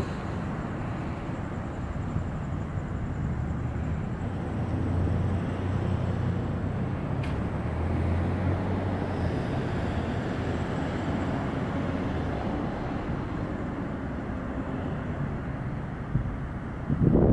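Steady low rumble of car engines and traffic. A low engine hum grows louder from about four seconds in, then fades again.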